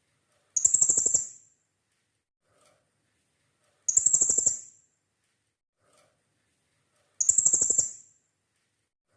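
Blue-crowned hanging parrot (serindit) calling three times, about three seconds apart: each call is a shrill, rapid string of notes lasting about a second.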